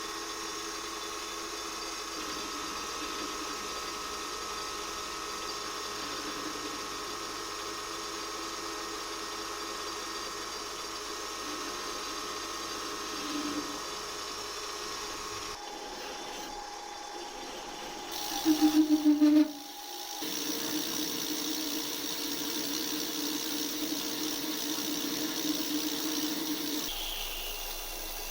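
Small metal lathe running steadily with a hum and whine while a 9.9 mm drill bores into a steel bar. There is a brief louder burst about two-thirds of the way through, and the motor stops near the end.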